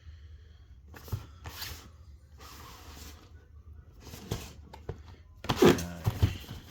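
Cardboard model-car box being handled and turned over: scattered rustles and scrapes, with a few louder knocks and bumps near the end.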